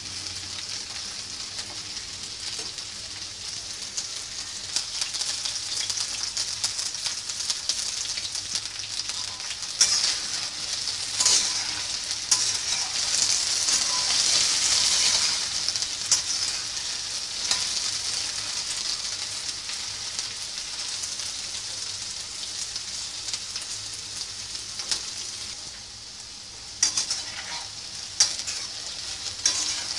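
Chopped okra sizzling in hot oil in a wok, a steady frying hiss that swells for a few seconds near the middle. A spoon knocks and scrapes against the pan now and then as the okra is stirred.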